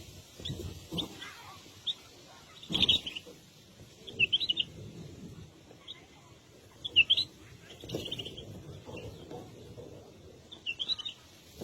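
A bird chirping in short clusters of high chirps every second or two, over a low rustling background.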